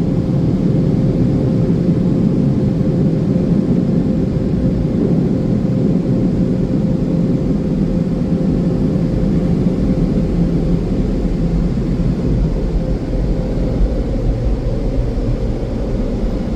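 Premier car wash dryer blowers running during the drying cycle: a loud, steady rush of air with a thin, steady whine in it.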